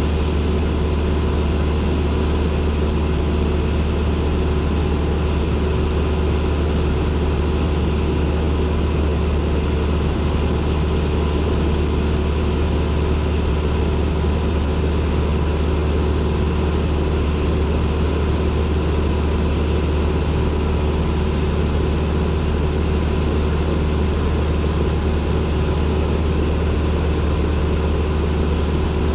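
Cessna 172N's four-cylinder Lycoming piston engine and propeller running steadily, heard from inside the cockpit as a constant deep drone with a few steady higher tones over it.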